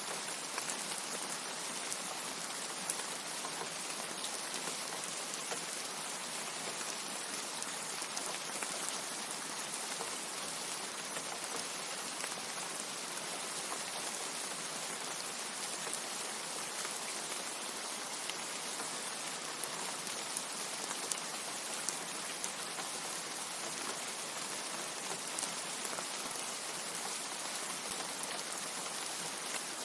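Steady rain: an even hiss with scattered small drop ticks, no thunder.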